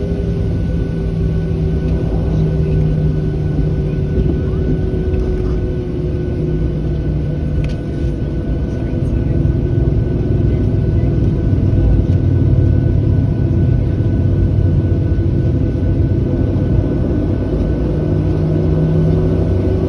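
Boeing 737-700 cabin noise from its CFM56 jet engines running at low power: a steady low rumble with constant hums, growing slightly louder about halfway through.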